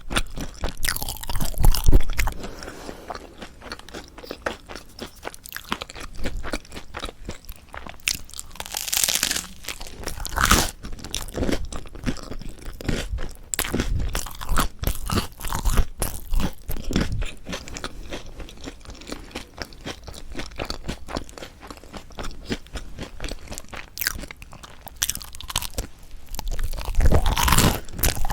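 Close-miked crunchy chewing of a toasted salad bread roll, its crisp, slightly burnt crust crackling in quick irregular crunches, with a few louder bites scattered through.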